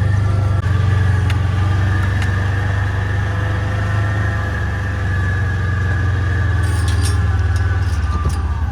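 A vehicle engine running steadily while riding, settling into an even idling throb near the end.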